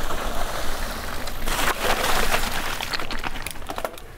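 Guerrilla Gravity The Smash mountain bike running down a rough trail: tyres crunching over gravel and rocks with a steady rush of noise. The rush is loudest about halfway through, and the bike gives a run of sharp clicks and knocks near the end.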